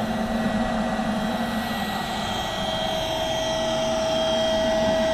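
OutdoorMaster Shark 2S electric inflation pump running steadily as it inflates an inflatable kayak: an even motor whine over a rush of air, growing a little louder about halfway through.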